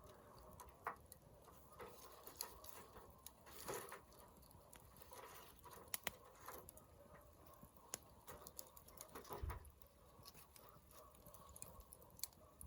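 Wood campfire crackling faintly, with scattered small pops and snaps.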